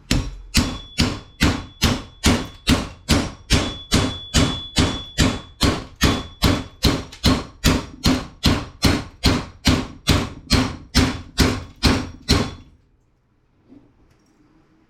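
Hammer pounding on a metal part of a scrapped radio: about 29 evenly spaced, loud blows, a little over two a second, with a faint metallic ring. They stop about twelve and a half seconds in.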